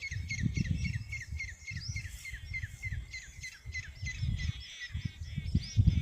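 A flock of small birds chirping quickly and continuously, many short high calls a second, over an uneven low rumble.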